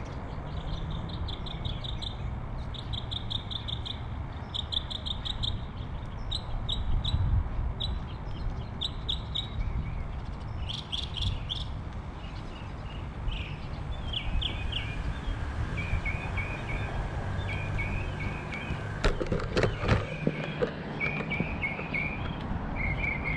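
Birds chirping in short, rapid trills that repeat every second or so, over a steady low rumble. A few sharp clicks fall near the end.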